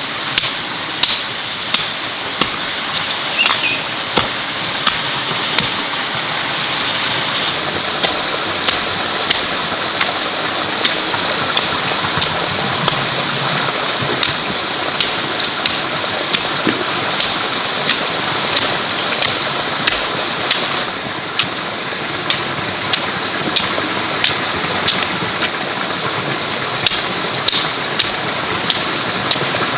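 A steady rush like running water, with sharp knocks about once a second on top, as of chopping or hammering.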